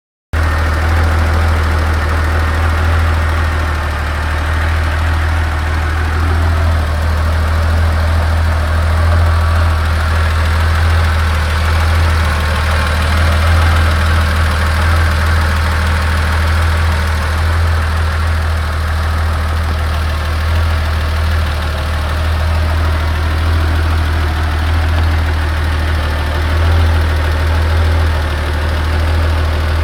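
1986 Porsche 911 3.2's air-cooled flat-six idling steadily when hot, with a tac-tac-tac ticking from the top end of the engine that the owner finds suspect.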